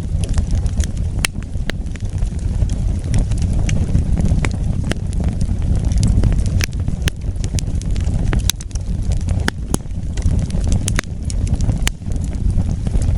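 Wood fire burning: a steady low rumble of flames with irregular sharp crackles and pops from the burning wood.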